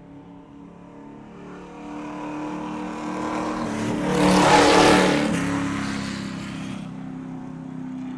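A car driving past: its engine hum and road noise grow louder, peak about four and a half seconds in, then fade away.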